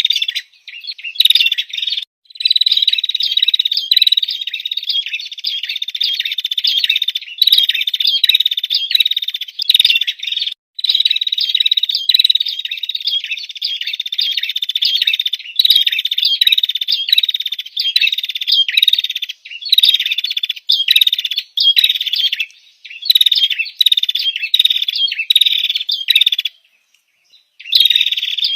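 Female prinia (prenjak) calling: a loud, rapid series of high chirps in long runs, broken by short pauses about two seconds in and around ten seconds in, and a longer pause near the end. It is the female's call that draws a male.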